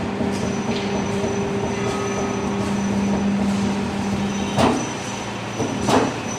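Hydraulic profile bending machine running with a steady hum, which stops about four and a half seconds in. Two sharp metallic knocks follow, about a second and a half apart.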